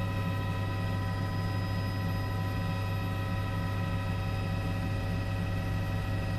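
Steady drone of a helicopter heard from inside the aircraft: a constant low hum with several steady whining tones above it, unchanging throughout.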